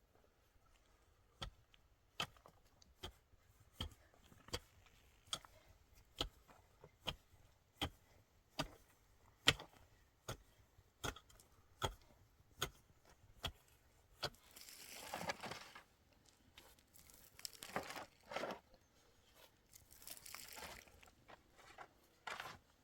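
A steady series of about sixteen sharp knocks, roughly one every 0.8 seconds, like repeated blows of a hand tool, followed by several bursts of scraping and rustling.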